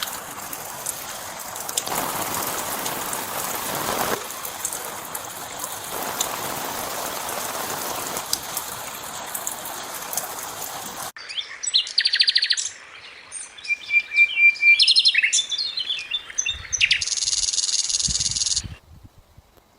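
Steady hiss with faint crackles for about eleven seconds, cut off abruptly. Then songbirds chirping and trilling, with one short rapid trill in the middle, for about eight seconds before stopping.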